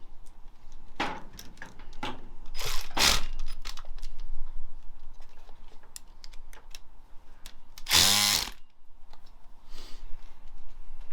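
Hand socket ratchet clicking, with the clatter of tools and metal parts, while bolts are done up on an engine. About eight seconds in there is a louder half-second burst.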